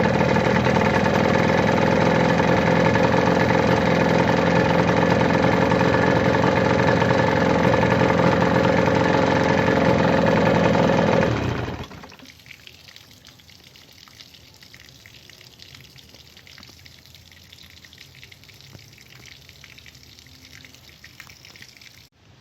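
1990 Johnson 9.9 hp two-stroke twin outboard motor running steadily, then shut off about eleven seconds in, the sound dropping away within half a second to a faint background hiss.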